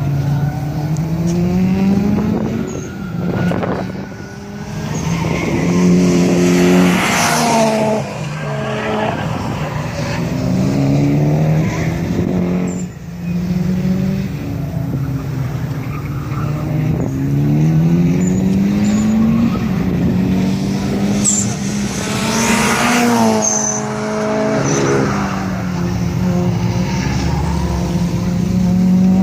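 Rally car engine pulling hard through the gears, its pitch climbing as it accelerates and dropping back at each gear change, again and again. Twice the tyres add a loud surge of skidding noise.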